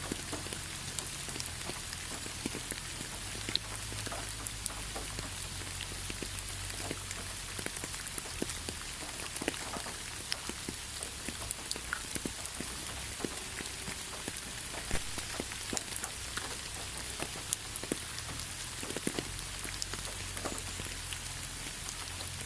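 Steady rainfall, with many scattered louder drops ticking close by.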